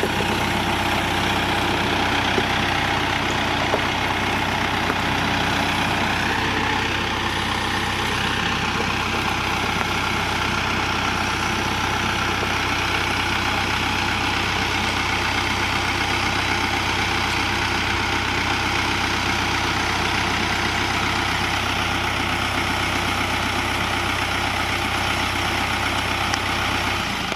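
Tractor engine running steadily at idle, a constant low drone with no revving.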